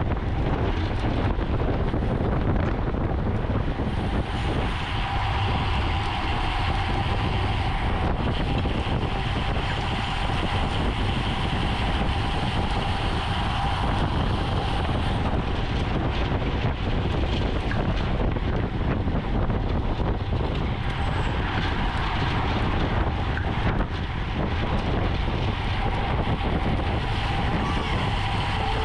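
Steady rush of wind on the microphone with road and tyre noise from a racing bicycle at speed, and a faint steady whine running through it.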